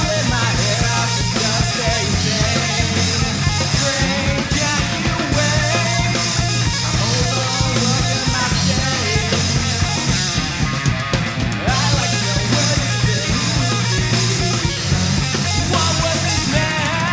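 Progressive hard rock song: loud, dense band playing with distorted electric guitars, bass and drums.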